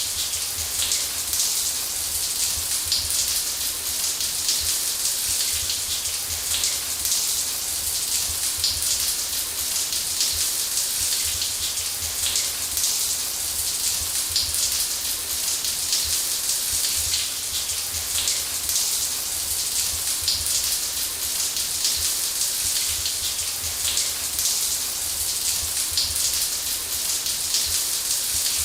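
Shower running steadily: water spraying and pattering in a dense, even hiss, strongest in the highs, with a low rumble underneath.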